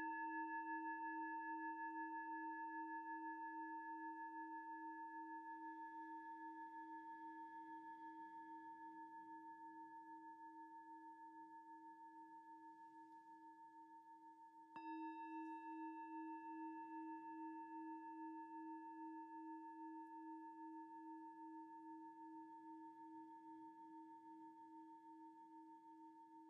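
Singing bowl ringing after a strike and slowly fading, its tone pulsing with a slow waver. About halfway through it is struck again and rings back up, then fades once more.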